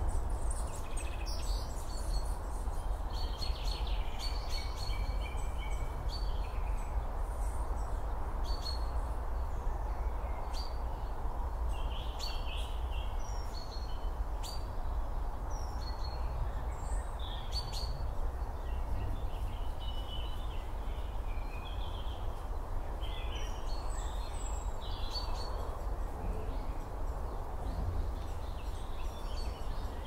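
Small birds chirping and singing on and off, over a steady low rushing background noise, with a few faint sharp clicks.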